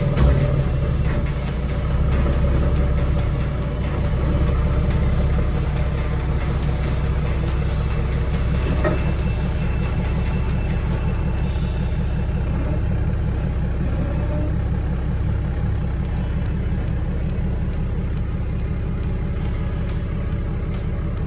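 An engine running steadily at idle: a continuous low rumble.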